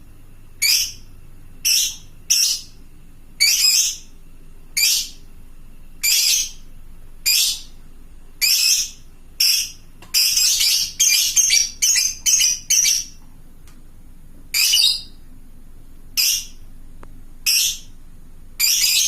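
Lovebird giving short, shrill, harsh calls about once a second, with a quick run of calls close together near the middle.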